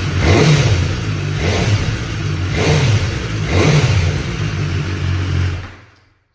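2019 BMW S1000RR's inline-four engine running through an Akrapovič exhaust, revved in about four short throttle blips a second or so apart over its idle, then stopping near the end.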